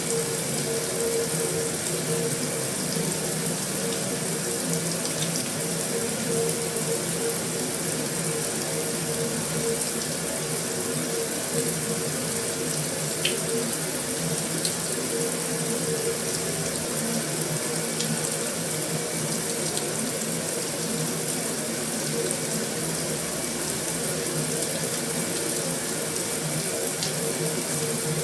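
Heavy rain drumming steadily on a metal roof, an even, unbroken hiss with a few sharper drop ticks now and then.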